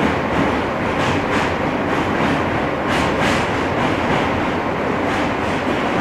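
R160 subway car running at speed, heard from inside the car: a steady rumble of steel wheels on rail, with pairs of clicks from the wheels crossing rail joints about every two seconds.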